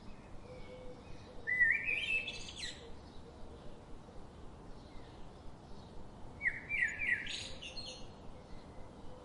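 A songbird singing two short phrases about five seconds apart, each a quick run of notes stepping upward in pitch, over a faint steady background.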